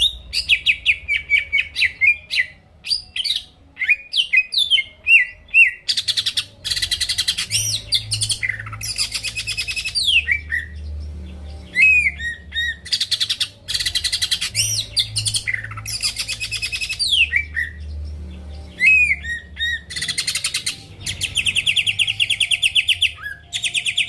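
Green leafbird (cucak ijo) singing continuously: quick whistled slurs and sweeping notes alternate with long, dense chattering trills, several bouts one after another.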